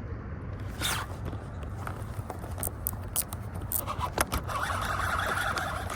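Scattered clicks and scrapes of fishing tackle being handled over a low steady rumble, then a steady whir from about four seconds in as the fishing reel is cranked to bring in a hooked fish.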